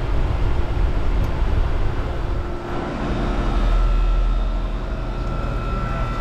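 York LX 2.5-ton heat pump outdoor unit running: the Bristol compressor hums steadily under the rush of the condenser fan. A faint steady whine grows a little stronger in the second half.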